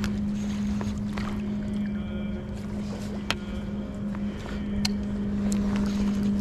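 Locomotive running with a steady low hum over a rumble, with a few sharp clicks in the second half.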